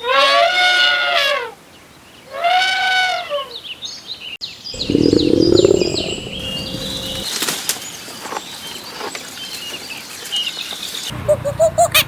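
A cow mooing twice in long, drawn-out calls. Then a burst of wing flapping among chirping birds, and near the end rapid, repeated short bird calls, about three a second.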